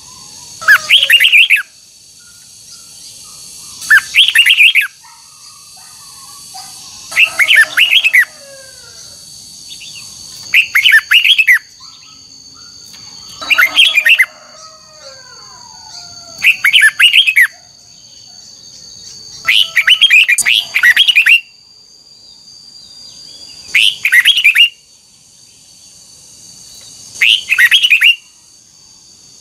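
Red-whiskered bulbul singing loud, short, warbling phrases, about one every three seconds, nine in all, with softer, lower chirps in between.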